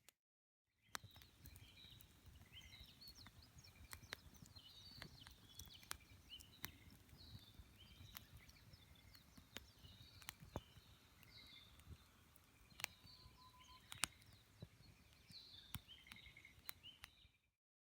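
Wood campfire crackling faintly, with sharp pops scattered irregularly throughout, while small birds chirp in the background.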